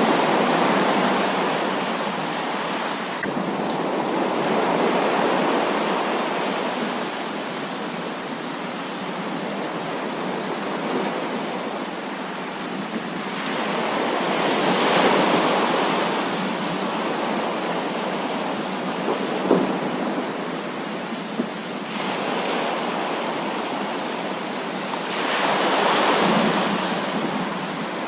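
Heavy rain pouring steadily, with rolls of thunder that swell and fade several times, the strongest in the middle and near the end. A couple of sharp knocks come a little past the middle.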